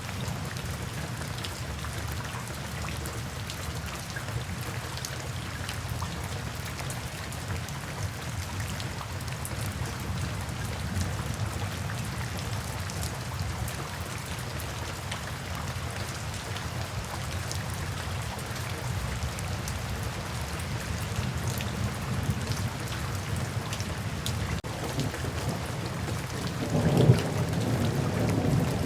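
Steady rain falling, with a low rumble of thunder underneath and a louder thunder rumble swelling near the end.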